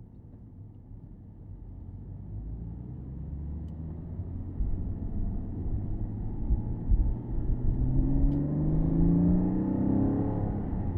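Porsche Boxster S (987.2) flat-six engine accelerating with low road rumble: its pitch climbs steadily over several seconds as it gets louder, then eases off near the end.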